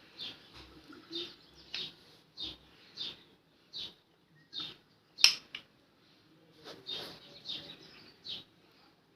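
A small bird chirping over and over, short high chirps about every two-thirds of a second, with one sharp metallic click about five seconds in.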